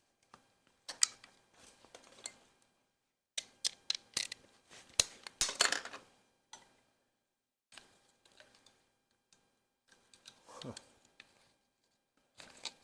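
Hand tools and metal engine parts clinking and clattering in irregular bursts of sharp clicks and knocks, with pauses between. About ten and a half seconds in comes a short sound that slides down in pitch.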